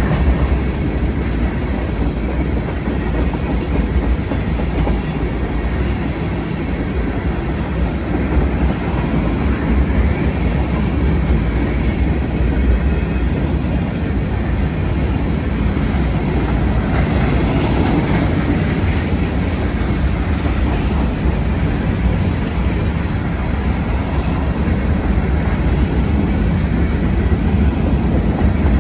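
CSX mixed freight train's cars rolling past close by, a steady rumble with wheels clacking over the rail joints.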